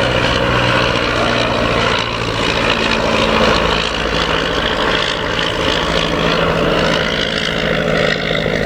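De Havilland DH-51 biplane in flight, its V8 engine and propeller running steadily, with a slight change in tone about two seconds in.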